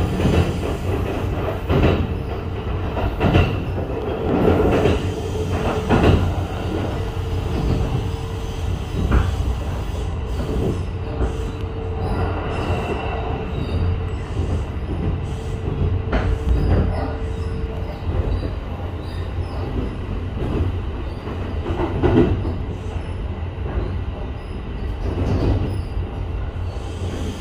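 Kintetsu 23000 series Ise-Shima Liner running, heard inside the passenger car: a steady rumble with irregular knocks from the wheels. A steady tone holds for several seconds in the middle.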